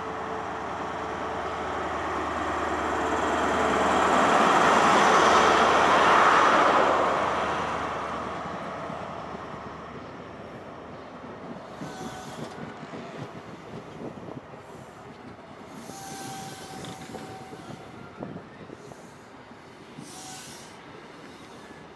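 InterCity 125 high-speed train passing close by: the leading Class 43 diesel power car grows louder to a peak about five seconds in, then the coaches roll past with a run of wheel knocks over the rail joints and a few short squeals.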